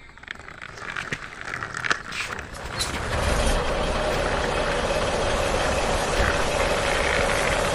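Plastic toy truck being pushed along by hand with light clicking and rattling. About three seconds in a steady engine-like running noise starts and holds evenly.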